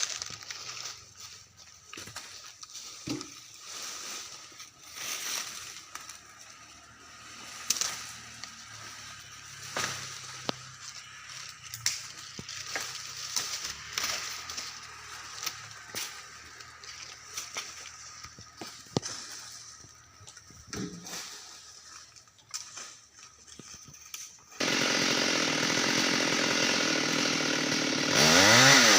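Scattered knocks and clicks, then about 25 seconds in a Stihl MS 382 two-stroke chainsaw comes in running steadily, and near the end it is revved up and down.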